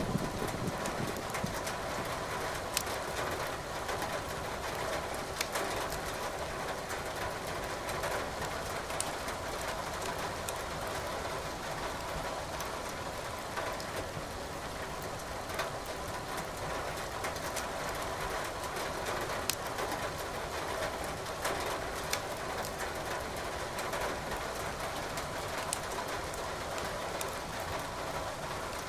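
Steady rain hissing, with burning firewood in a fireplace giving sharp crackles every few seconds. A roll of thunder dies away in the first second.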